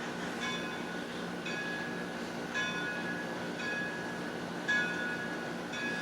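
Steam locomotive bell ringing from an HO scale model train's sound decoder, struck evenly about once a second, six times, over a low steady hum.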